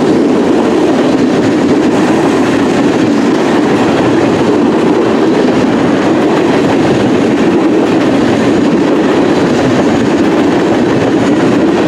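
A CN local mixed freight train's cars rolling past on steel wheels, a loud, steady sound of wheels running on the rails.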